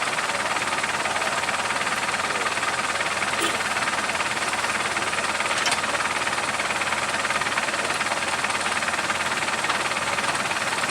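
Steady loud running noise of a vehicle engine, with a couple of faint clicks.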